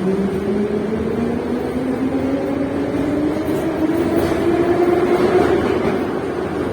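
Metro train accelerating away from a station, heard from inside the carriage: the traction motors' whine rises steadily in pitch over the constant rumble of the running train.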